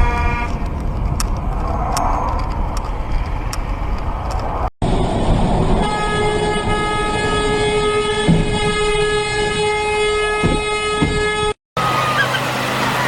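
Road traffic noise with a few sharp clicks, then a vehicle horn blowing one steady, unbroken tone for about five seconds. The sound breaks off abruptly twice, about halfway through and near the end.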